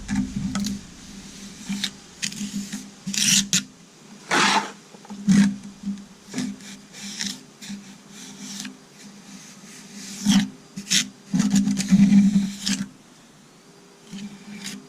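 Trowel scraping and pressing a dry portland-and-sand concrete mix into a patch on concrete steps, in irregular gritty strokes, several of them sharp and loud.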